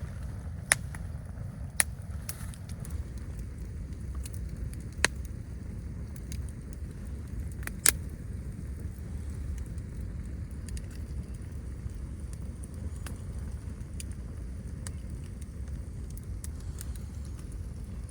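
Campfire crackling with a few sharp pops, the loudest about eight seconds in, over a steady low rumble of wind.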